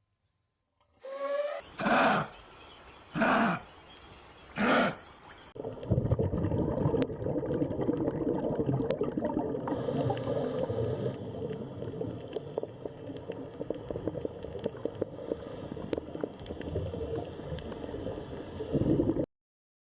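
Animal sounds: a short call, then three separate loud calls about a second and a half apart, followed by a long stretch of dense, rough, low noise with scattered clicks that cuts off suddenly near the end.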